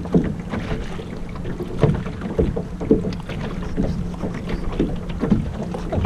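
Water slapping and splashing against a small sailboat's hull at uneven intervals, with wind buffeting the microphone and a steady low hum underneath.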